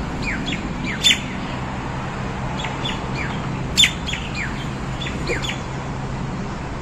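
A songbird calling: a run of short chirps that slide downward in pitch, broken by two louder, sharper calls about a second and about four seconds in. It is calling for its mate.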